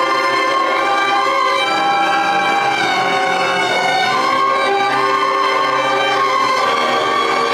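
Upper primary school concert band playing a piece, with long held chords that move every second or two.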